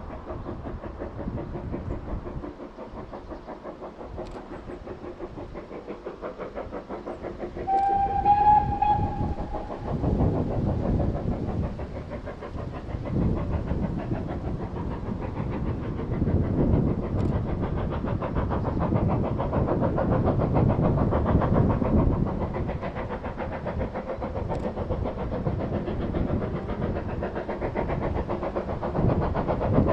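Class 55 Deltic diesel locomotive passing, its twin Napier Deltic two-stroke engines running with a fast, pulsing beat. The horn sounds one short note about eight seconds in, then the engine grows much louder as the locomotive draws close.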